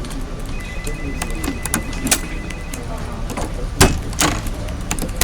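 Busy office ambience: a steady low hum under irregular clicks and knocks, with one sharp knock a little past the middle and faint voices in the background. A thin, steady high tone sounds for about two seconds, starting about half a second in.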